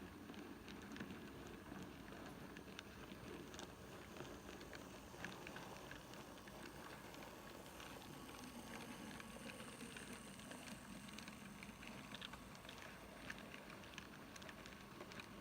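N gauge model train running on the layout: a faint steady hiss with many small, irregular clicks of wheels on the track.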